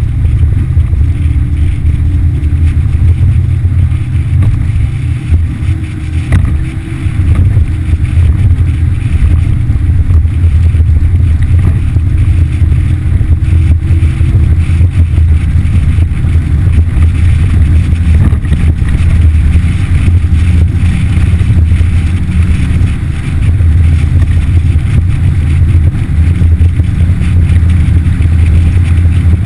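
Yamaha F60 four-stroke outboard motor running steadily with the boat under way, a loud low drone that briefly drops about six seconds in.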